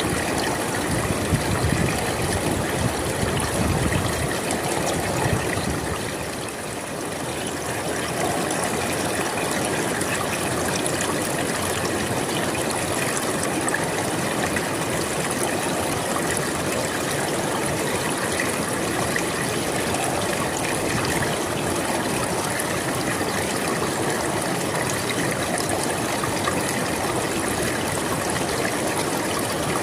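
River water flowing steadily, an even rushing of water that eases for a moment about six seconds in.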